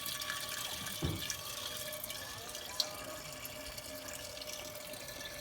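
Rainwater trickling and dripping steadily as it is drained out of a soaked tent, with a soft low thump about a second in.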